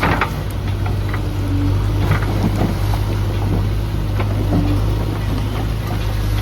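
Heavy diesel engine, such as a JCB's, running steadily with a deep even hum, with scattered short knocks and clanks over it.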